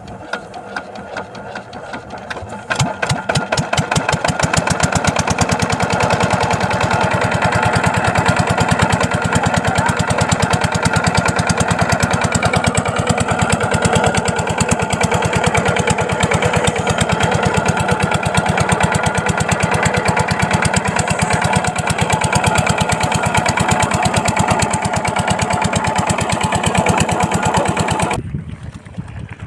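8 hp single-cylinder diesel water-pump engine picking up speed over the first few seconds, then running steadily with a fast, regular beat. The sound drops sharply near the end.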